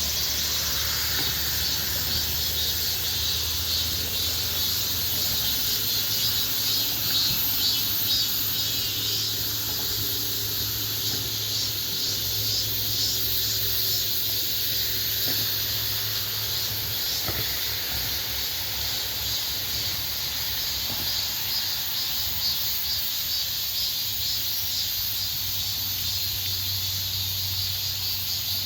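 Chorus of cicadas and crickets: a dense, steady, high-pitched buzzing and trilling.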